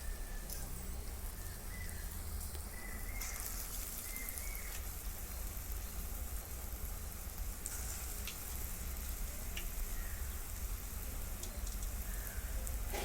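Gram-flour bonda batter deep-frying in hot oil: a steady sizzle with scattered small crackles.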